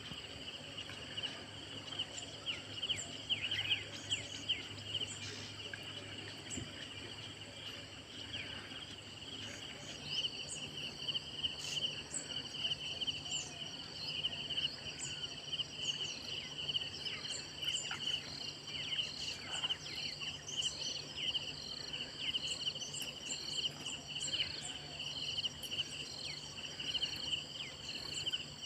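Insects, crickets among them, trilling steadily, joined about a third of the way in by a second insect pulsing about once a second, with scattered short bird chirps over a faint steady low hum.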